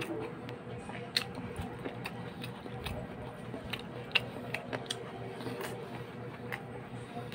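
Mouth sounds of eating barbecue and rice by hand: scattered soft clicks and lip smacks from chewing, a few to a second, over a steady low hum.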